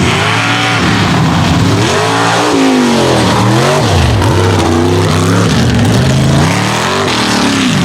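Mega truck engine revving hard as the truck runs a mud race course. It is loud, and its pitch climbs and drops repeatedly as the driver works the throttle, with deep dips about halfway through and again near the end.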